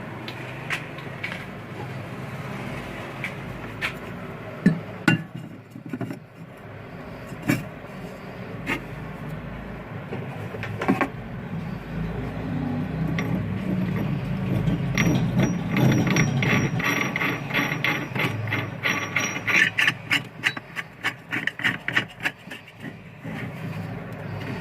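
Hand tools working on the metal parts of a washing machine's rotor assembly: scattered clinks and knocks, then past the middle a long run of rapid metallic clicking.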